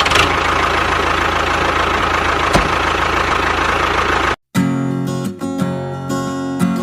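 DIY mini tractor's small motor running with a steady whine for about four seconds, then cutting off suddenly. Strummed acoustic guitar music follows.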